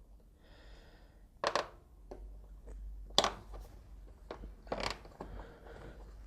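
Wire retaining band on a washing machine door seal being worked loose, with scraping and three sharp metallic clicks about a second and a half apart.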